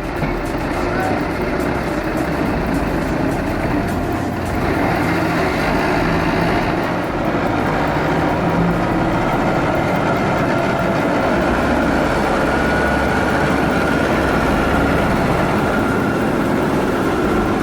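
Heavy vehicle engine running steadily under load, a loud continuous rumble and roar with a faint steady whine that becomes clearer partway through.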